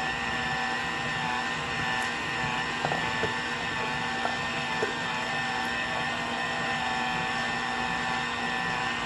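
Electric stand mixer running steadily as it kneads a stiff flour-and-water dough: a steady motor whine with a few faint knocks.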